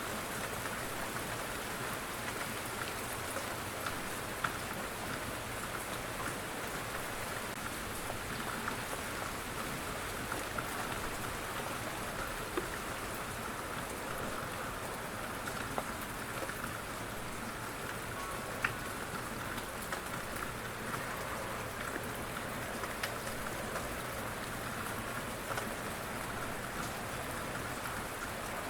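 Steady rain falling, with scattered individual drops tapping on a surface.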